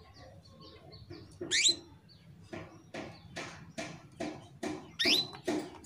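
Female canary in breeding condition calling for a male: a steep rising whistled sweep about a second and a half in, then a run of short sharp chirps, two or three a second, with a second rising sweep near the end.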